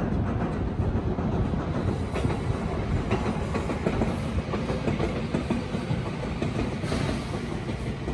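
A passing train, rumbling steadily with its wheels clattering on the rails.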